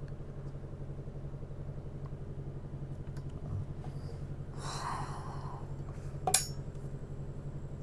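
A steady low hum throughout, with a brief hissing noise about five seconds in and then a single sharp clink of a utensil against a bowl.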